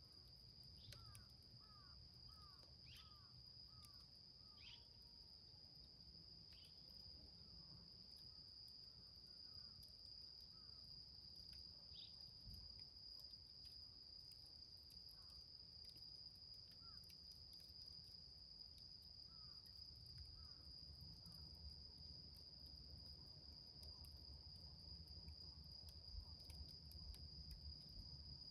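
Faint, steady, high-pitched insect trill, cricket-like, holding one unbroken tone, with scattered soft short chirps and faint ticks in the background.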